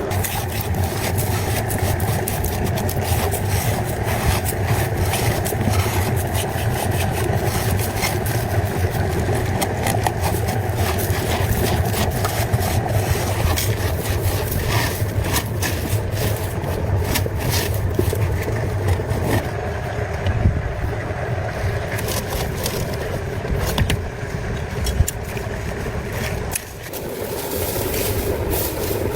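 A vehicle engine running steadily, with frequent clicks and scraping noises over it; the sound drops briefly about 27 seconds in, then carries on.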